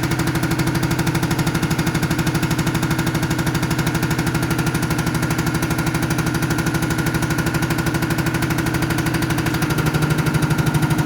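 Diesel unit-pump test bench running under test with a Mercedes Actros unit pump (Bosch 0414799005) mounted, making a rapid, even pulsing over a steady hum, a little louder near the end.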